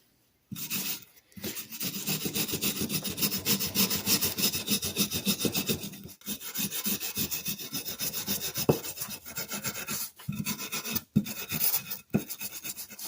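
Cast-iron hand-plane frog being rubbed back and forth on sandpaper in quick, even strokes to sand out rust pitting, with brief pauses about six and ten seconds in.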